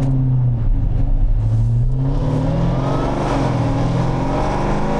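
Car engine running at a steady pitch, then accelerating from about two seconds in, its pitch climbing steadily to the end.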